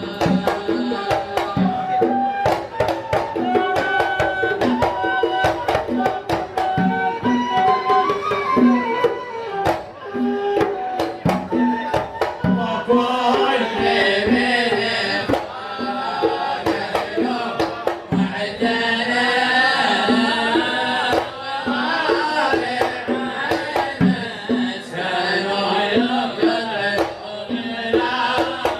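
Arabic devotional samā' singing: voices chanting a melody over quick, steady hand-drum beats.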